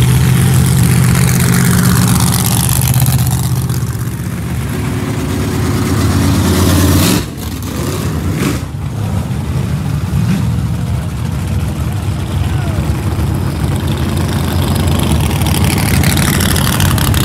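Street-race car engines running at low revs in a steady rumble that drops away abruptly about seven seconds in. Near the end a pickup truck drives past close by, its engine sound sweeping past.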